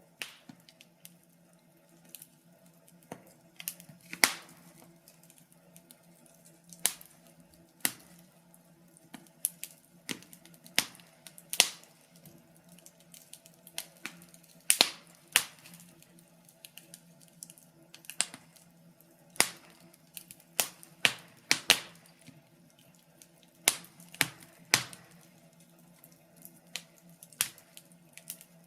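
Wood fire crackling in a fireplace: irregular sharp pops and snaps, a few every second or two, some much louder than others, over a faint steady hum.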